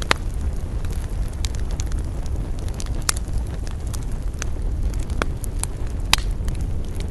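Campfire crackling, with irregular sharp pops over a steady low rumble; the two loudest pops come just after the start and about six seconds in.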